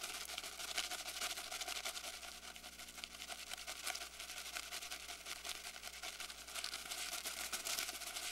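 Faint outdoor background sound: a low, even hiss with fine, rapid ticking.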